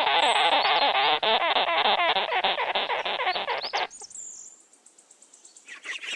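Sugar glider giving a rapid, continuous run of high chattering chirps that stops about four seconds in. Fresh chirping starts again just before the end.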